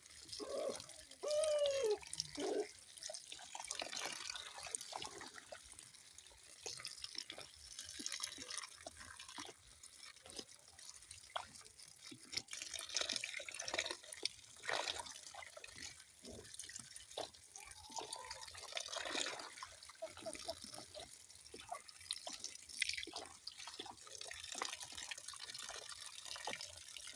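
Water dripping and splashing in irregular drops and spatters over a steady trickle, like a tap running into a sink. A brief wavering tone sounds about a second in.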